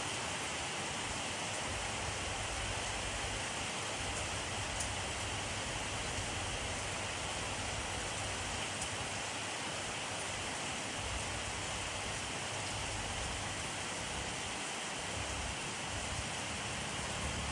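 Steady rain falling, a continuous even hiss of drops with a few faint individual drop ticks.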